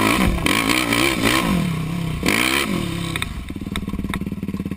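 Yamaha YFZ450R SE quad's single-cylinder four-stroke engine through a Rossier exhaust, revving up and down in about four quick swells. It then drops to a steadier, lower and quieter note off the throttle for the last second and a half, with some clatter.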